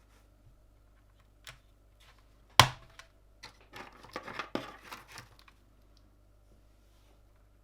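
Hard plastic clicks and handling noise from mechanical keyboard parts being worked on: one sharp snap about two and a half seconds in, then a run of smaller clicks and rustling for about two seconds.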